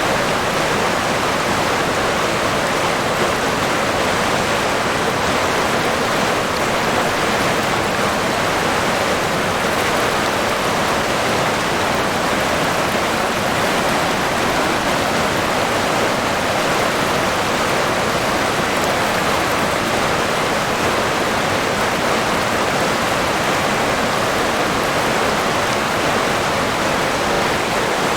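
River water running steadily, a constant rushing flow.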